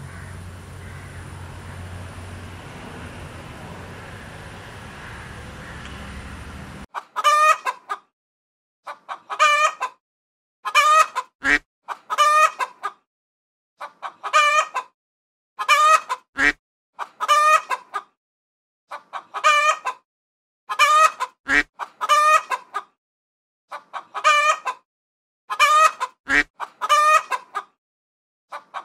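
Chicken calls, about one second each with a wavering pitch, repeated every one to two seconds in a pattern that recurs about every five seconds. Before them, a steady rushing noise runs for several seconds and cuts off abruptly.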